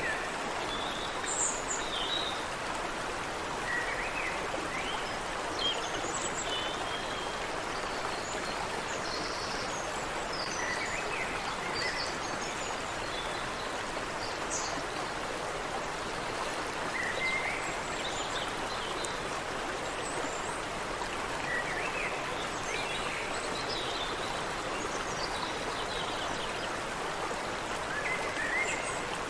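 Steady rushing of water in a stream, with birds chirping and trilling now and then over it.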